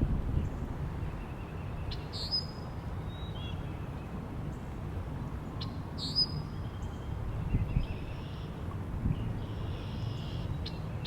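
Wild birds calling over a steady low wind rumble: two sharp, down-sliding high calls about two and six seconds in, with shorter buzzy chirps between and near the end.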